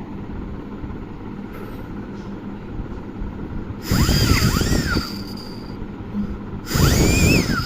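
Two strong breaths blown through a water flow meter sensor, each about a second long: rushing air with a whistling tone that rises and falls.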